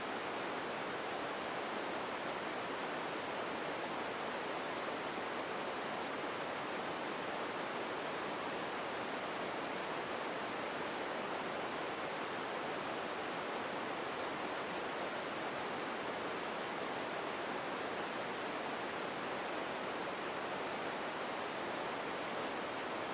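Empty room ambience: a steady, even hiss with no distinct events.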